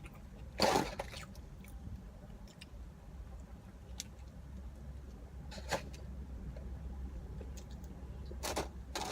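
A steady low hum inside a car, with a few short crackling eating noises from a burger-and-fries meal: about a second in, near six seconds and near the end.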